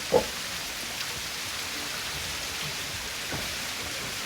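Steady hiss of water, with one short thud just after the start.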